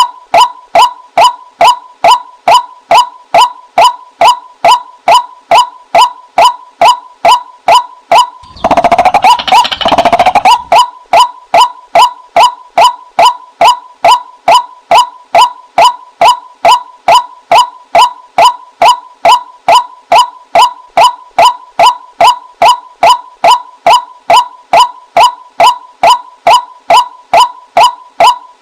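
Call of a female white-breasted waterhen, as used for luring birds: a single note repeated very evenly about twice a second. A louder, rougher burst of sound lasting about two seconds breaks in about nine seconds in.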